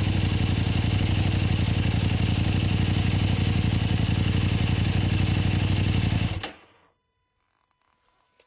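Kove 800X Pro motorcycle's parallel-twin engine idling steadily, then switched off about two-thirds of the way through, dying away within half a second. After that, near silence with a faint steady hum and a small click near the end.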